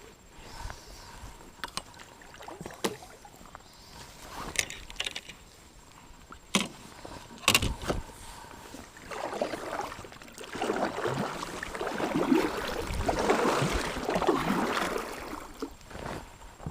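Scattered knocks and clicks on a kayak, then about six seconds of water sloshing and splashing around the hull, starting about nine seconds in.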